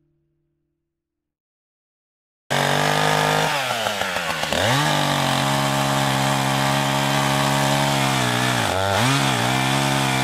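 Echo CS-590 two-stroke chainsaw running at high revs, cutting in abruptly a couple of seconds in. Its engine pitch sags twice, about a second after it starts and again near the end, as the chain bogs down in the wood.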